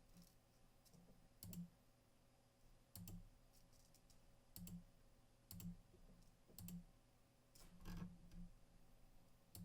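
Faint computer mouse clicks, about seven of them at irregular intervals roughly a second apart, against near silence.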